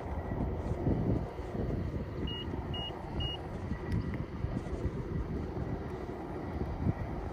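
InMotion E20 electric unicycle rolling on cracked pavement: tyre rumble and wind buffeting on the microphone. Three short high beeps about half a second apart come a little after two seconds in.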